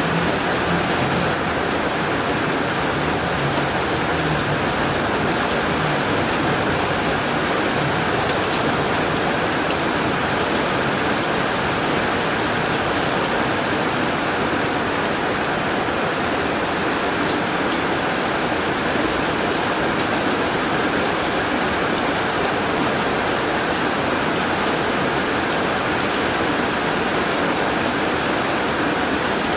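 Heavy rain falling on a tin roof: a steady, dense patter of drops hitting metal.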